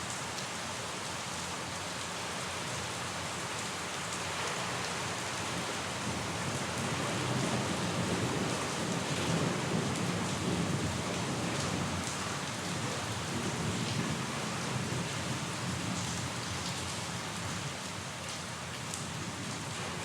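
Steady rain falling, with a low rumble of thunder that swells in the middle and dies away.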